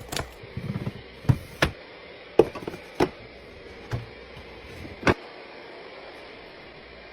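Items and containers being set down and arranged while a fridge is restocked: about ten sharp knocks and clacks, with a quick cluster a little under a second in, and the last just after five seconds.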